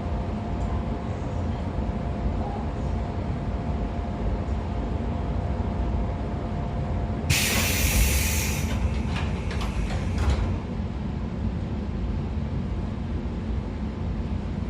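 Running sound of a JR 113 series electric train's motor car: a steady rumble of MT54 DC series-wound traction motors, gearing and wheels on rail, with a faint steady tone. About seven seconds in the tone stops and a sudden loud rushing hiss lasts a second or so, followed by a few sharp clicks.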